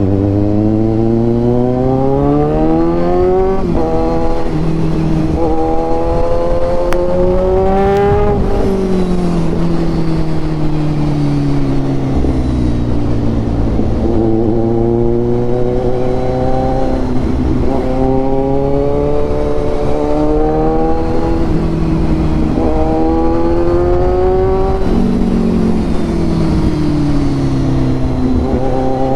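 Kawasaki Ninja 1000's inline-four through a full Austin Racing exhaust system, pulling hard through the gears. The revs climb, drop sharply at each upshift and climb again several times, with stretches where they fall away as the bike rolls off.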